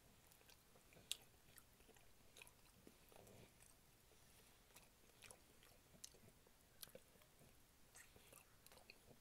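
Faint close-up chewing and wet mouth clicks from a person eating oxtail by hand, with scattered sharp smacks at irregular intervals.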